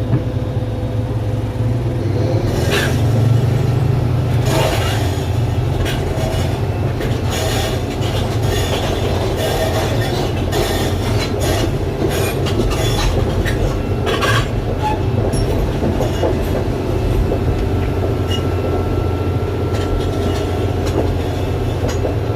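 Doosan 420LC crawler excavator travelling: its diesel engine runs steadily under the clank and rattle of the steel tracks. The clanks come thickest in the first two-thirds, and a thin high tone sounds briefly near the end.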